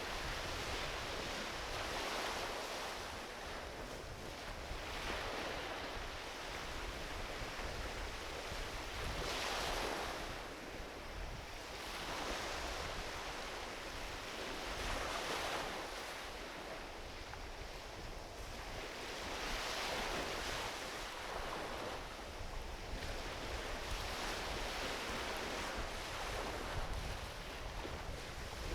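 Small ocean waves washing onto a beach, each swell rising and falling every few seconds, with a low wind rumble on the microphone.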